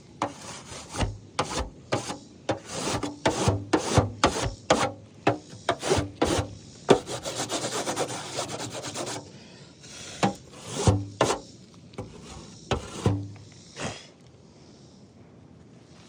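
Rough scraping and scuffing on an asphalt-shingle roof, with many sharp knocks, then a steady rasp lasting about two seconds, then a few more knocks before it goes quiet.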